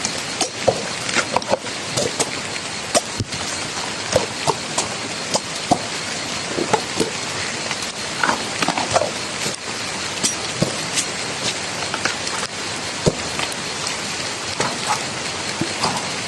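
Steady rain falling, with many scattered sharp drips and taps at irregular moments.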